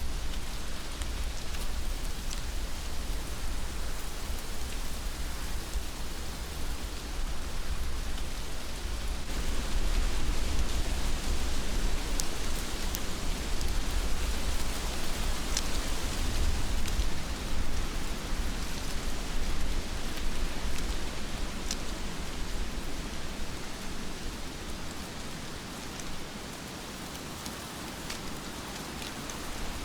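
Heavy rain falling steadily, a dense hiss with scattered sharp drop ticks and a low rumble underneath. It grows louder about nine seconds in and eases a little near the end.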